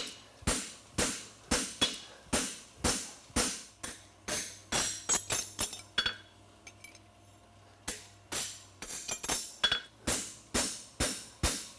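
Hand hammer striking a steel horseshoe on an anvil, about two to three ringing blows a second, with a pause of about two seconds near the middle before the hammering resumes. The farrier is forging the shoe into shape.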